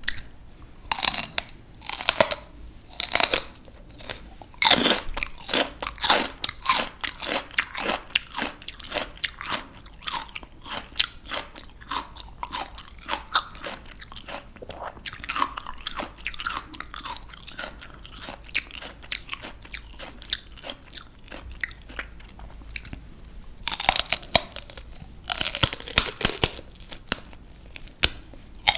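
Close-up crunching of raw vegetables being eaten: a few loud crisp bites in the first seconds, then a long run of rapid, steady chewing crunches, and another cluster of loud bites near the end.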